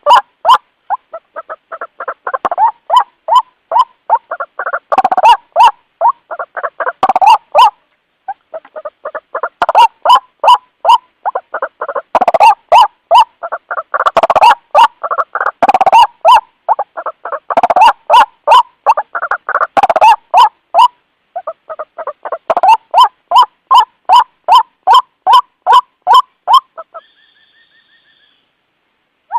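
White-breasted waterhen (ruak-ruak) calling: a loud, rapid series of repeated notes at about two to three a second, in long bouts broken by brief pauses. This is the bird's call to its companions, used as a lure. The calling stops about 27 s in, followed by a faint short whistle, then silence.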